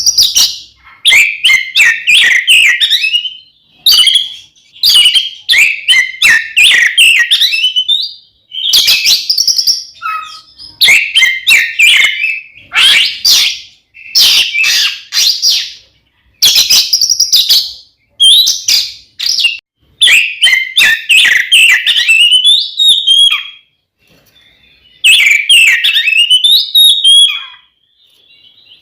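Oriental magpie-robin (kacer) singing loudly in full song. Phrases of fast, varied whistles and chips last one to three seconds each and are broken by short pauses.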